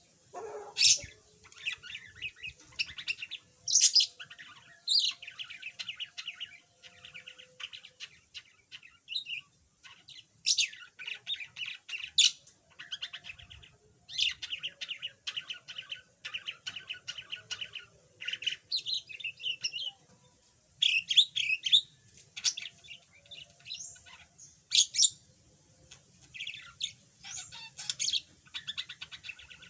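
Budgerigar chattering: a running warble broken every few seconds by loud, sharp chirps, with a few short pauses.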